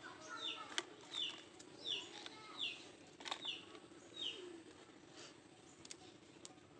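A small bird calling: six short falling chirps, about one every 0.7 seconds, stopping about two-thirds of the way through. A few sharp clicks, the loudest just under a second in, over a faint steady hum.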